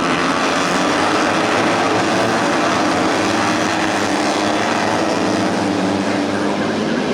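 Several tuned four-stroke 150cc underbone race motorcycle engines running hard at once, their overlapping engine notes wavering as they rev.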